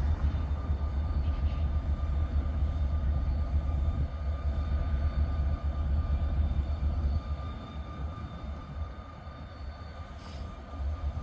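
Steady low engine rumble of an idling engine, easing somewhat about seven seconds in, with a faint steady whine above it.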